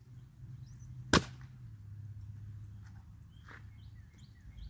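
A single sharp crack about a second in, over a steady low hum.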